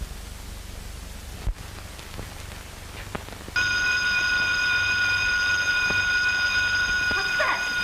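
An electric burglar-alarm bell starts ringing suddenly about three and a half seconds in and goes on as a loud, steady, continuous ring. Before it there is only the hiss of an old film soundtrack and a single thump.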